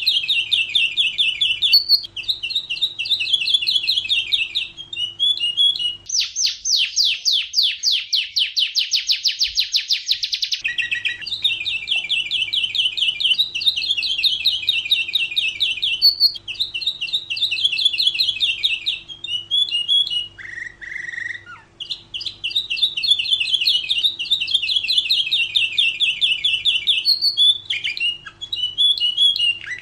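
Domestic canary singing long, rapid trilled phrases in quick succession. About six seconds in comes a louder, coarser rolling trill lasting around four seconds. A faint steady low hum runs beneath the song.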